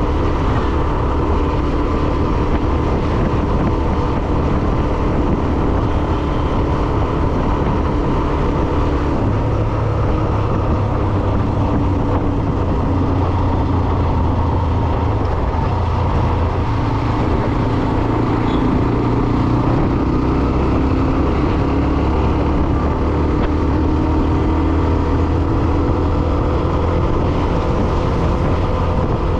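Hero Xtreme 125R motorcycle being ridden: its single-cylinder engine runs steadily, its pitch drifting a little, under a constant rush of wind on the microphone.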